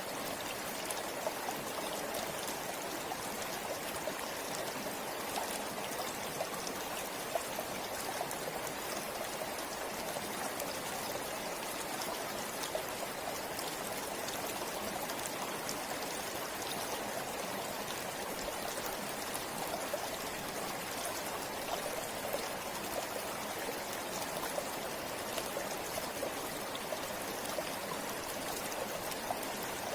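River water flowing steadily over stones, a constant rush with small splashes and trickles.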